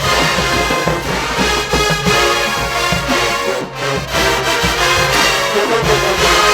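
Full HBCU marching band playing loudly: massed brass over a steady drum line, with a brief break about halfway through.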